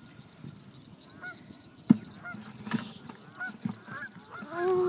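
Birds calling: a series of short calls, ending in a louder, longer call near the end. A sharp knock about two seconds in.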